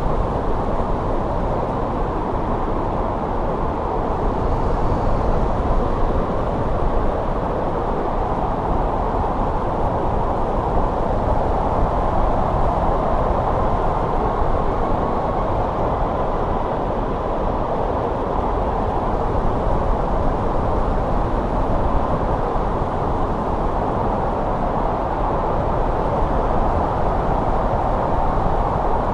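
Steady winter wind, a low even rushing noise with no gusts, breaks or distinct events.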